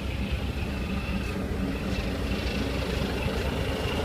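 A steady low rumble of running machinery, with a faint, steady high whine above it.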